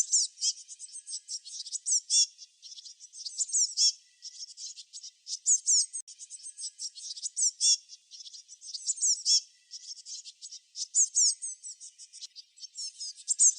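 Songbirds chirping: bursts of quick, high, down-sweeping notes, a new burst every second or two.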